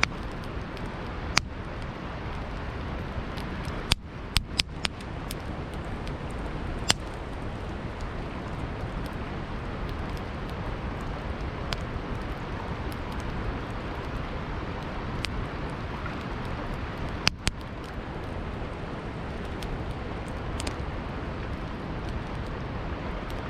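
Campfire crackling, with a few sharp pops (a quick cluster about four seconds in and a pair near seventeen seconds), over the steady rushing of flowing river water.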